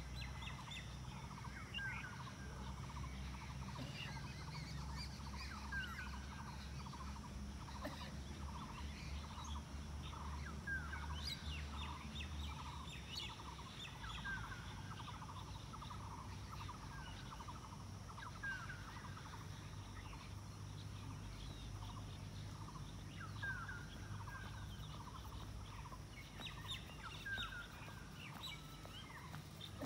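Birds chirping, a steady run of short repeated notes about two to three a second with scattered higher chirps over them. A low rumble underneath stops about twelve seconds in.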